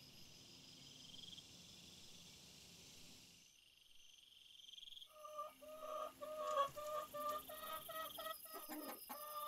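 Night insects chirring steadily, then after a brief hush, chickens clucking in short repeated calls from about five seconds in.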